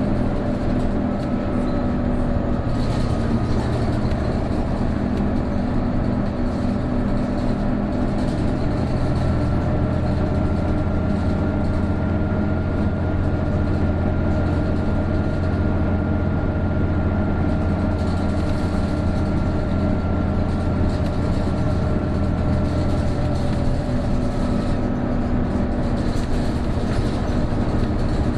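Isuzu Erga PJ-KV234L1 turbo-diesel city bus heard from inside the cabin, its engine droning under power with a thin, steady whine over it. The whine is the bus's characteristic abnormal noise, like an Aisin automatic transmission, which comes in once the turbo is working. The engine note swells about nine seconds in and eases again near the end.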